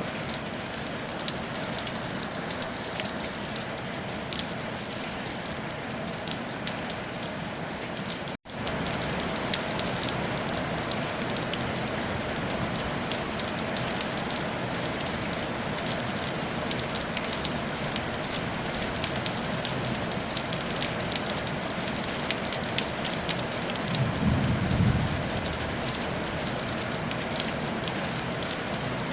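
Steady rain pattering on a tile roof, a dense hiss of fine drop ticks. The sound cuts out for an instant about eight seconds in and comes back slightly louder, and a brief low rumble rises and fades near the end.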